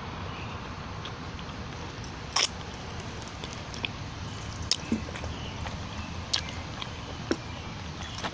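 Close-miked eating of buffalo wings: chewing and biting with a handful of short, sharp wet mouth clicks, the loudest about two and a half seconds in, over a steady outdoor background hiss.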